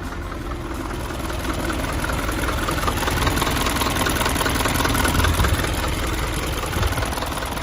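Nissan Atlas light truck's engine running, growing louder over the first few seconds and then easing off a little near the end.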